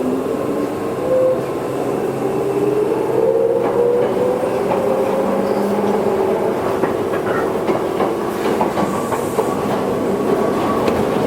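Toyohashi Railway 1800-series electric train running, its motor hum rising in pitch for the first few seconds as it gathers speed and then levelling off, with the wheels clacking over rail joints.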